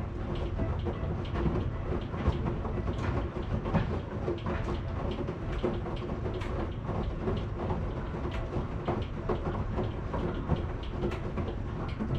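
Washing machine running: a steady low rumble with a faint hum and many irregular clicks and knocks.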